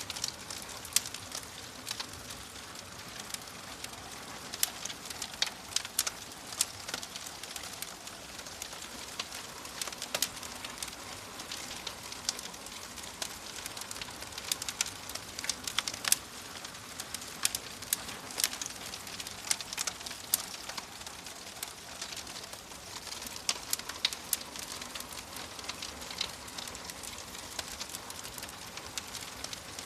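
Wood fire burning in a fireplace: a steady soft hiss with frequent irregular crackles and pops, a few of them louder snaps.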